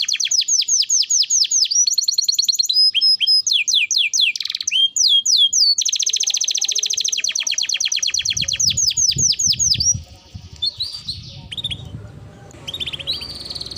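Domestic canary singing in fast trills: long rolls of rapidly repeated down-slurred notes with chirps between them, turning fainter with scattered chirps about ten seconds in. A low background rumble comes in under the song near the end.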